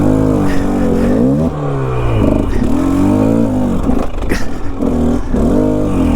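Enduro dirt bike engine revving up and down over and over as the throttle is worked, with a few short knocks and clatter.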